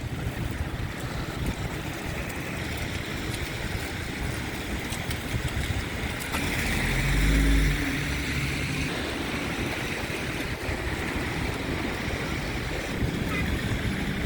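City traffic noise with wind on the microphone: a steady hiss of vehicles on snowy streets. A heavier vehicle passes close about six to eight seconds in, its low engine rumble swelling and then fading.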